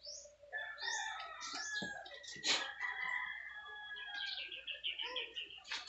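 Birds calling and chirping, with a fast run of repeated short notes about four seconds in. A sharp knock comes about two and a half seconds in and another near the end.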